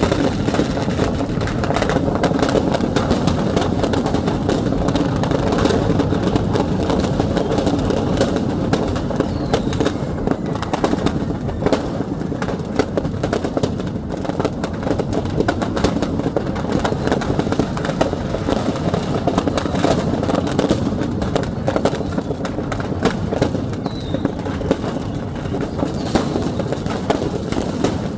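Firecrackers going off in a continuous rapid crackle of small pops, over a steady dense rumble: firecracker stock exploding in a shop fire.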